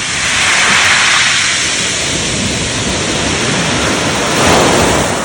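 Seawater rushing and washing, a steady hiss that swells about a second in and again near the end, like waves surging around the kayak.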